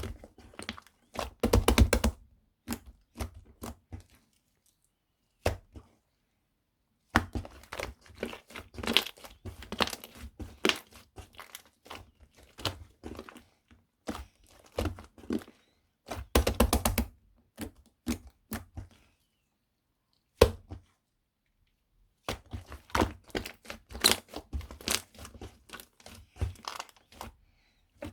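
Shaving foam being mixed and pressed by hand: clusters of quick, sharp clicking crackles, broken by two short pauses, one near the start and one past the middle.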